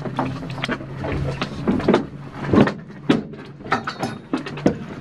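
A Toyota Yaris rally car's engine idling with a steady low hum inside the cabin, under irregular clicks and clunks of racing-harness straps and buckles being handled and fastened.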